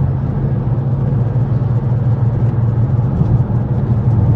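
BMW sedan's engine and tyre noise while driving slowly on a wet road: a steady low drone.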